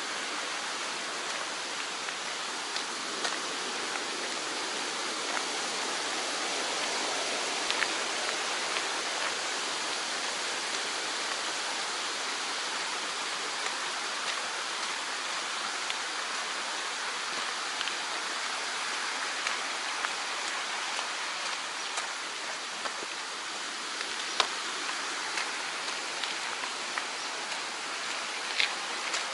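Mountain stream rushing steadily, with a few faint scattered clicks over it.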